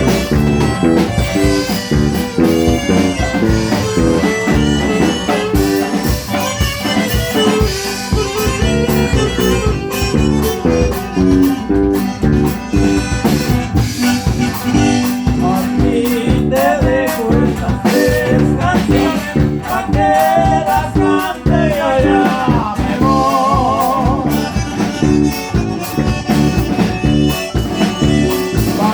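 Norteño band playing an instrumental passage: a button accordion carries the melody with trills over a steady strummed rhythm and bass.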